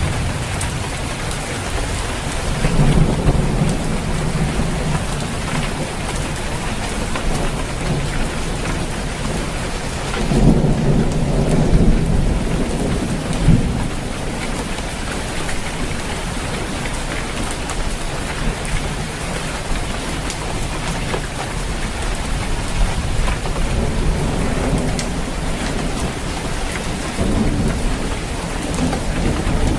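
Steady rain on a roof, a dense patter of drops, with low thunder rumbles swelling about three seconds in, again around ten seconds in, and once more near the end.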